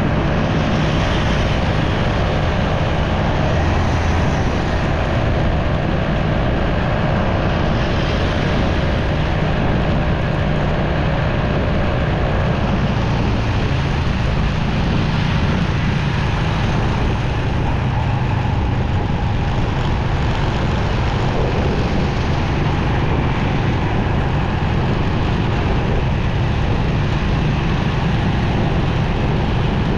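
Motorcycle riding along a busy city road: the steady drone of its engine with wind rush and the noise of surrounding traffic.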